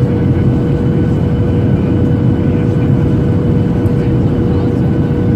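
Steady cabin noise inside a Boeing 737-800: the rumble of its CFM56 engines and the airflow, with a steady hum running through it.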